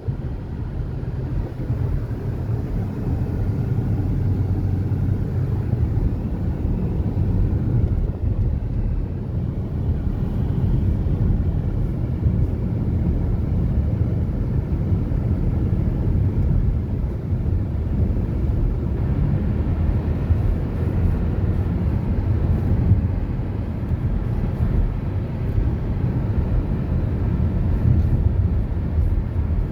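Steady low rumble of a moving road vehicle, even and unbroken throughout.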